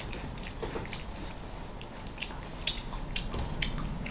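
Close-miked chewing of cereal soaked in orange juice: irregular crunches and wet mouth clicks, several a second.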